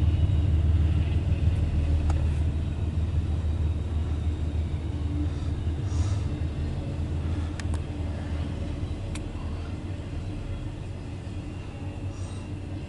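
CSX intermodal freight train rumbling past, fading steadily as it moves away, with a few faint clicks about halfway through.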